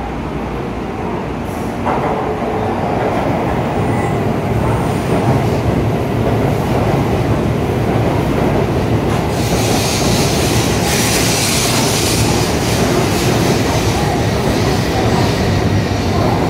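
N700S Shinkansen train pulling into the platform at low speed: a steady rumble of wheels and running gear that gets louder about two seconds in. High-pitched wheel and brake noise joins about halfway through as the train slows for its stop.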